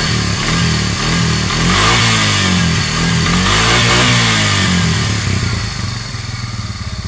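ATV (four-wheeler) engine revving up and down several times, then fading away near the end.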